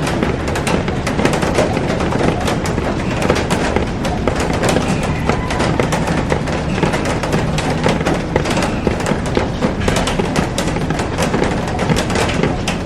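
Heavy rain falling on a glass roof and garden: a loud, steady hiss of rainfall packed with sharp, rapid drop strikes on the glass.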